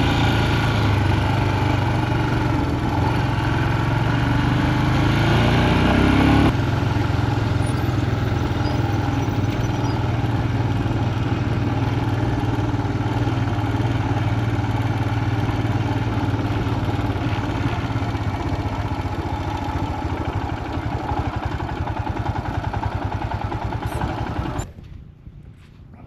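Royal Enfield Himalayan single-cylinder engine running steadily as the motorbike rides slowly over sand and loose gravel. The sound changes abruptly about six seconds in and falls away sharply near the end.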